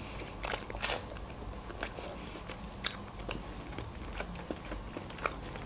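A person biting and chewing fried, sauce-glazed chicken wings: soft wet smacks and crackles with a few sharper clicks, the loudest about a second in and again near three seconds.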